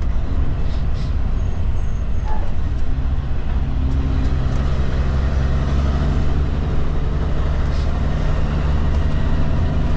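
Cummins diesel engine of a Kenworth K200 road train running steadily at low speed; its low note grows stronger from about three seconds in.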